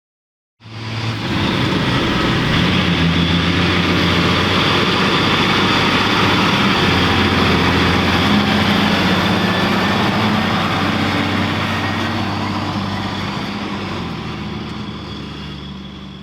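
Diesel engine of heavy farm machinery running steadily, a low engine hum under a wide mechanical hiss, setting in about half a second in and slowly fading away over the last few seconds.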